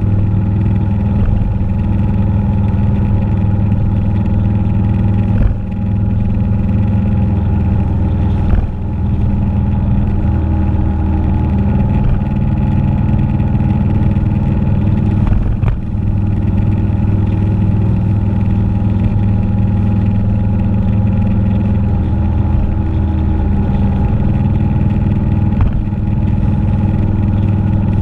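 Motorcycle engine running steadily at cruising speed, with a brief dip in loudness and a small change in pitch three times, as at gear changes or easing off the throttle.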